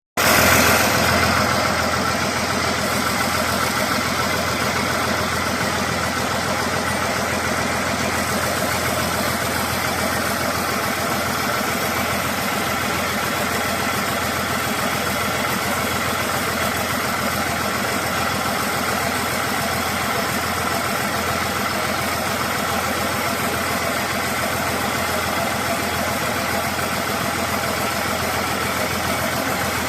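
Heavy diesel engine running steadily, a little louder in the first second or two, then holding an even speed.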